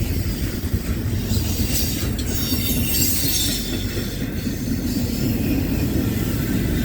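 Norfolk Southern freight train rolling past, a steady low rumble of cars on the rails, with high wheel squeal rising out of it for a couple of seconds around the middle.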